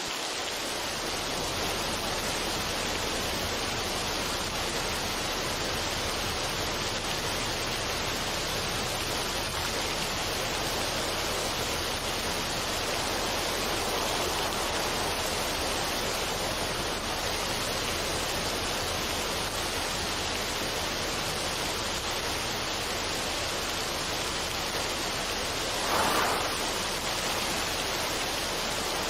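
Steady, even rushing noise with no rhythm or tune, swelling briefly louder once near the end.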